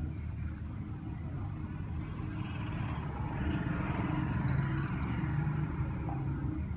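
Low steady rumble of road traffic, with one vehicle passing: it swells louder in the middle and fades away.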